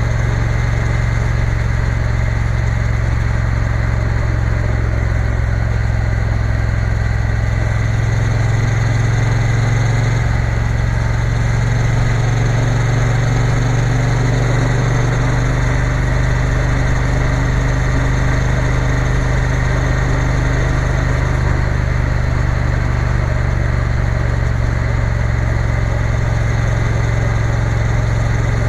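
Triumph Bonneville T120 parallel-twin engine running steadily while riding, its note shifting slightly partway through.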